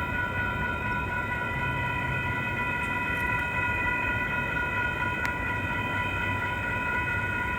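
Railroad crossing warning bell ringing steadily with a high, even tone while the crossing gates are still down after the train has cleared.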